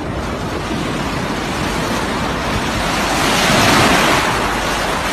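Ocean surf washing up a beach, an even rushing noise that swells as a wave breaks about three and a half seconds in.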